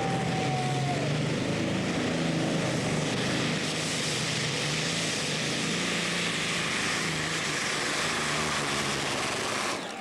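Competition pulling tractor's engine running hard at full power during a pull: a dense, steady engine noise with a slightly wavering pitch that cuts off abruptly near the end.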